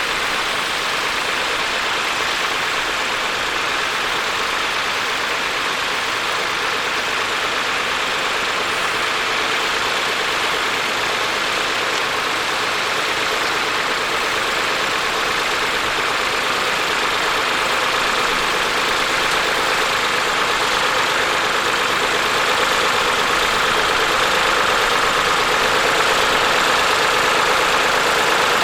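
Tractor engine running steadily, slowly growing louder.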